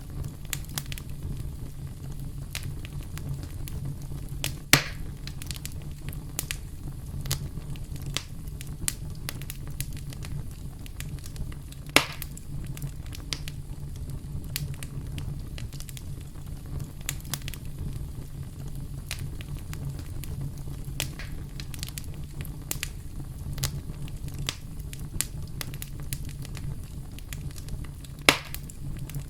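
Crackling wood campfire: a steady low rumble of burning wood with frequent small crackles, and three loud sharp pops, at about 5 and 12 seconds in and near the end.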